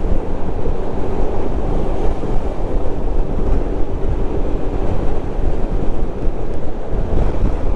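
Wind rushing over a helmet-mounted microphone on a moving motorcycle, a steady low rumble with the engine and road drone underneath.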